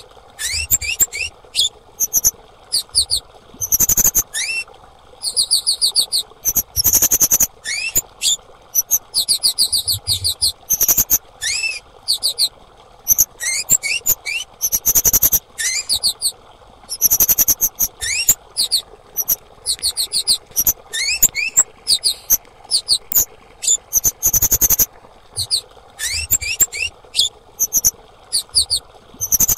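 Female kemade bird calling: quick bursts of high, thin chirps and trills, repeated over and over with short gaps, with some upward-sweeping notes, over a faint steady background hiss.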